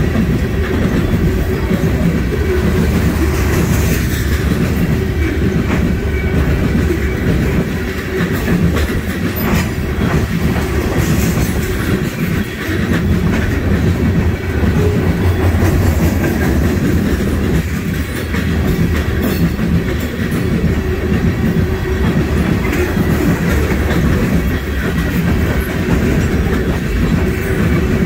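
Freight train of covered hopper cars rolling past close by: a loud, steady rumble with the wheels clicking over rail joints.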